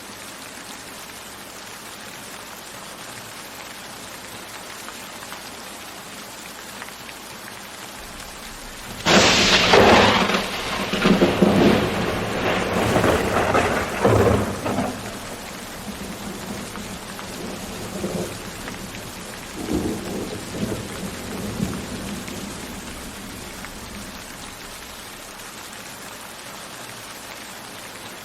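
Steady rain, broken about nine seconds in by a sudden loud thunderclap that rolls on in uneven rumbles and dies away over the next dozen seconds or so.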